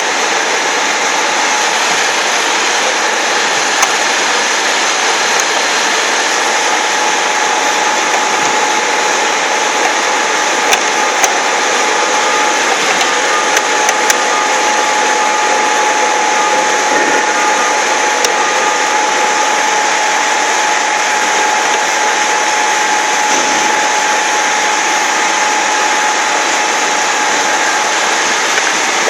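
VEG-25 end mill grinder running steadily: its motor and grinding wheel whir with a thin steady whine, and a few light ticks come through.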